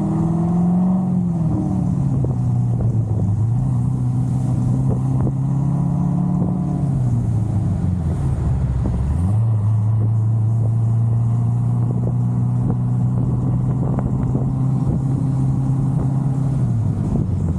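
Chevrolet Corvette C6 Z06's 7.0-litre LS7 V8 with a big aftermarket cam, running under way with wind noise on the microphone. Its exhaust note holds steady, then drops away about eight seconds in, picks back up about a second later, and dips again near the end.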